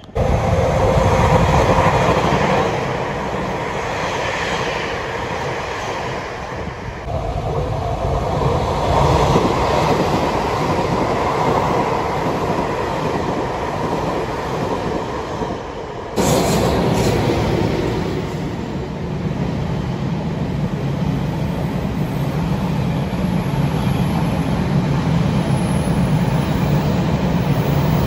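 Electric passenger trains passing station platforms, a steady noise of wheels running on rail. About 16 seconds in the sound changes abruptly to another train passing through an underground station.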